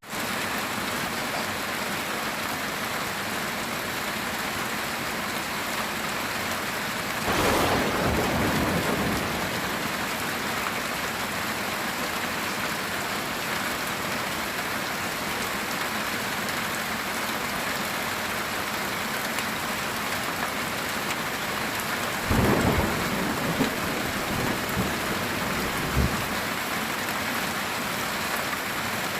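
Heavy rain falling steadily on a metal tin roof. Thunder breaks in twice: once about a quarter of the way in, rolling for a couple of seconds, and again about three quarters of the way through, followed by a few shorter cracks.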